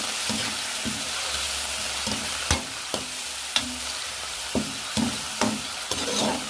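Chicken sizzling in hot oil in a pan, with a steady hiss, while a utensil stirs it and knocks against the pan several times.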